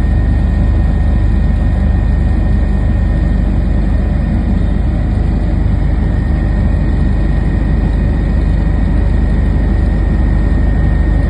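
Steady, unbroken engine and airflow rumble, heaviest in the low end, heard from inside an aircraft cabin in flight.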